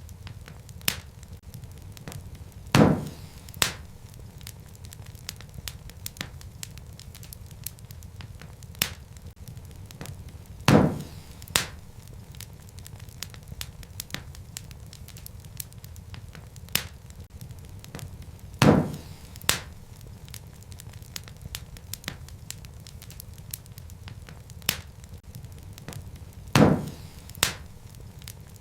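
Wood fire burning in a fireplace: a steady low rumble of flame with constant small crackles. About every eight seconds a loud pop of burning wood comes, followed less than a second later by a smaller one.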